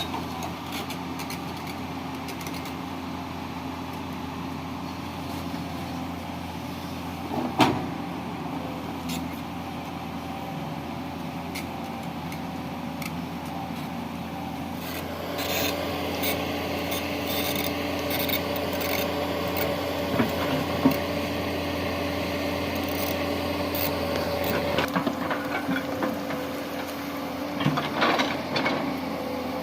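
Tata Hitachi 200 excavator's diesel engine running steadily, with the scraping and knocking of its bucket working the hillside. There is a sharp knock about seven seconds in. From about halfway the machine gets louder, with more scraping and clanks.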